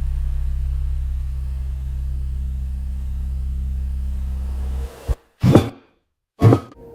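Steady low ambient drone that cuts off suddenly about five seconds in, followed by three short hissing bursts separated by silence.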